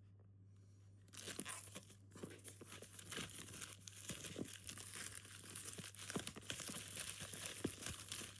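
Packaging being unwrapped: crinkling and tearing with many small crackles, starting about a second in and going on continuously.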